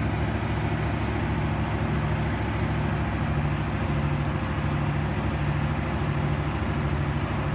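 1968 Oldsmobile 442's 400 cubic-inch V8 idling steadily through its stock, mild exhaust.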